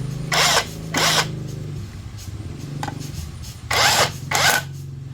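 A power tool run in five short bursts, mostly in pairs, over a steady low motor hum, during work on a motorbike engine.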